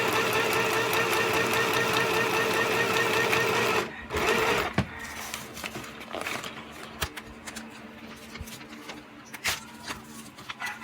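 Sew Simple 12-stitch domestic sewing machine (model K1127) running steadily as it sews a test stitch, stopping abruptly about four seconds in. Scattered small clicks and knocks follow as the machine is handled.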